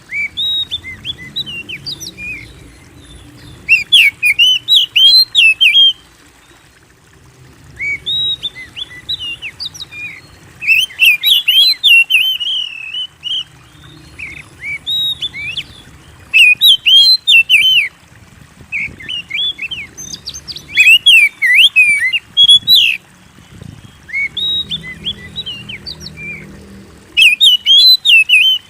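Oriental magpie-robin in full song: about eight loud bursts of rich, varied whistled phrases, each lasting two or three seconds, with short pauses between them.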